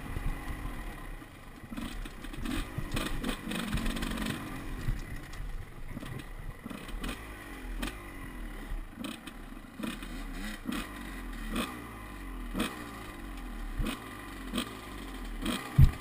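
Off-road dirt bike engine revving up and dropping back again and again, with scattered clattering knocks and one loud knock just before the end.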